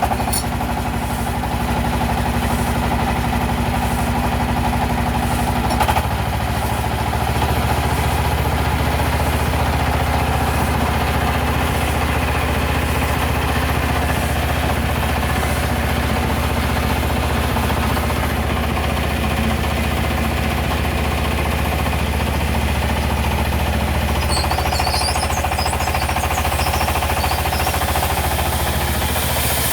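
Diesel engine of a wood-cutting sawmill running steadily just after starting, with a brief jump and a slight change in its note about six seconds in.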